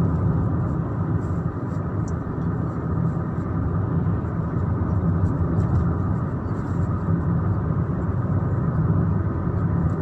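Steady road and engine noise heard from inside a moving car, a low rumble with no change in pace.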